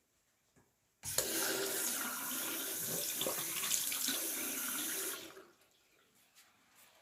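Water tap running for about four seconds, filling a toy fire truck's water tank. It starts abruptly about a second in and tails off after about five seconds.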